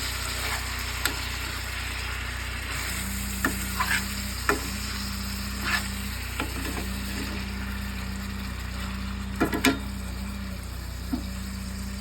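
Thin-sliced Steak-umm beef sizzling in ghee in a pan on a camp stove, with sharp clicks and taps of a utensil against the pan as it is stirred. A low hum comes and goes from about three seconds in.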